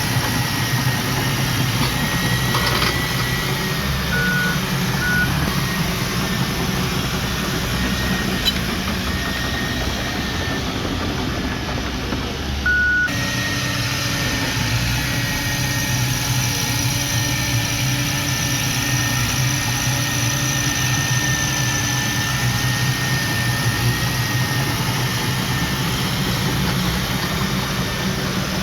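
Diesel engine of heavy earthmoving machinery running steadily, with a faint wavering whine. Three short beeps sound, two close together about four to five seconds in and one more later. The engine sound changes abruptly about halfway through.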